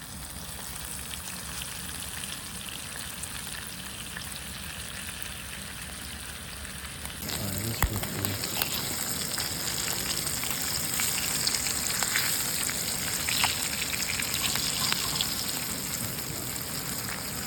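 Frog legs frying in hot oil in a pan, a steady sizzle with scattered pops and crackles. The sizzle gets louder and brighter about seven seconds in.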